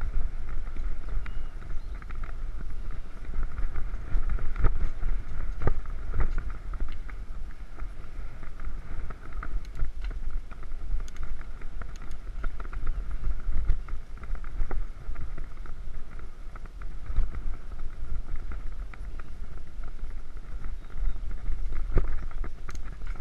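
Mountain bike rolling along a dirt trail: a steady low rumble of wind on the microphone, a constant mid-pitched hum of the tyres, and scattered clicks and rattles of the bike over bumps.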